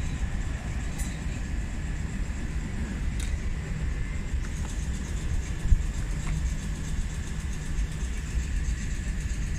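Train rumbling through the station with a faint steady high whine over the low rumble; a single thump a little past halfway.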